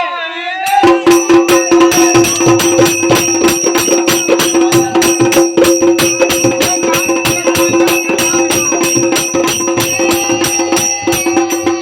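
Bundelkhandi Diwari folk music without singing, starting about a second in. It is fast, dense percussion with jingling metal over one steady held tone.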